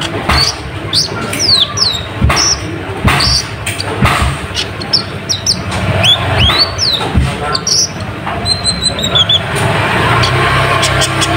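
Konin, the brown-throated sunbird, calling: repeated sharp chirps that fall in pitch, with a quick run of short notes about two-thirds of the way through. Sharp clicks or knocks come in between the chirps.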